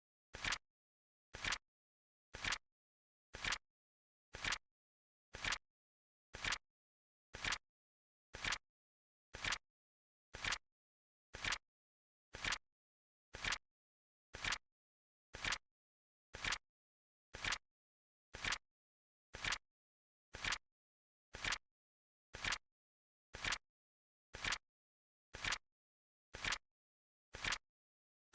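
Countdown timer's clock tick sound effect: one short, sharp click every second, evenly spaced and equal in loudness.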